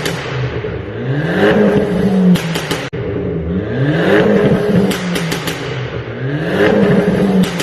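Stage 1 tuned Fiat 500 Abarth's turbocharged 1.4-litre four-cylinder revved three times. Each time the engine note rises and holds, then the exhaust pops and crackles on lift-off.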